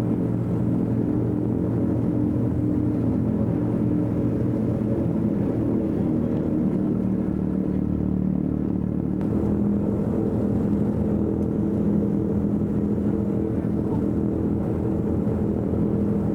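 Twin piston radial engines of a DC-3 running steadily, several engine tones slightly out of step and drifting against each other.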